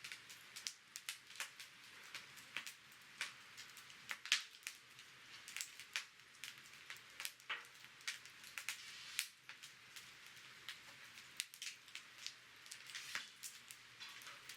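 Wood campfire burning in a brick fire stand, crackling with irregular sharp pops over a soft hiss.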